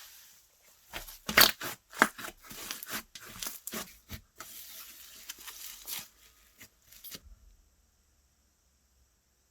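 Slime being stretched, pressed and squished by hand, making a run of sharp crackling, popping and tearing sounds that stops about seven seconds in.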